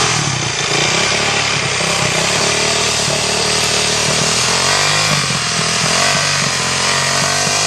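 Yamaha 450cc single-cylinder four-stroke dirt bike engine running, its revs rising and falling a few times under the throttle.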